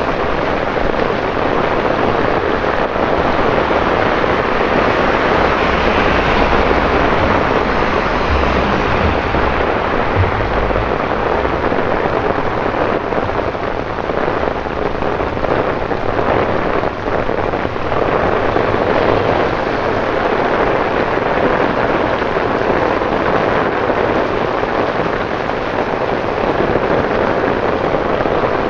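Torrential rain pouring onto wet city pavement and road, a dense, steady hiss and patter. A low rumble comes and goes around the middle.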